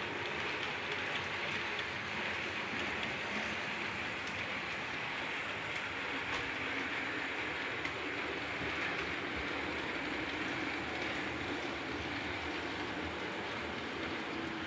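Model trains running around a layout: a steady whirr of small motors and wheels running on track.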